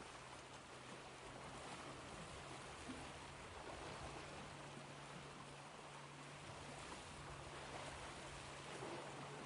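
Ocean surf washing, a faint steady hiss that swells and ebbs gently every few seconds.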